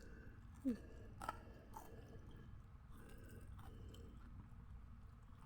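Close-up chewing of fried battered oncom, with a few wet clicks and crisp crunches of the mouth. There is a short falling "mm" sound from the eater about half a second in.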